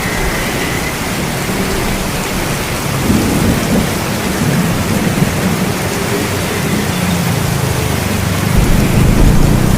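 Steady rain with low rolling thunder, the rumble swelling about three seconds in and growing louder near the end.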